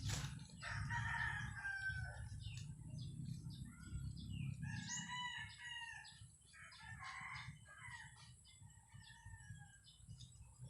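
A rooster crowing several times, with a long crow near the start and another around the middle, over a low steady rumble.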